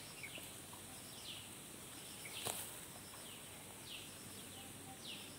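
Faint birds chirping in the background: short falling notes repeating every second or so, over a low hiss, with a single sharp click about two and a half seconds in.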